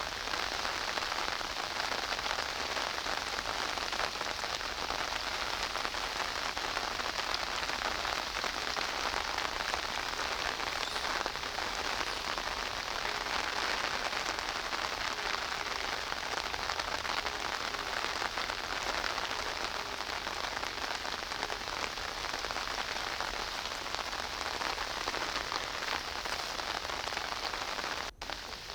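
Steady rain falling, a dense even patter of drops, which briefly cuts out near the end.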